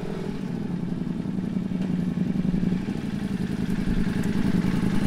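Ducati Multistrada V4S's V4 engine running at low speed as the motorcycle rolls slowly up, a steady low pulsing that grows louder as it comes closer.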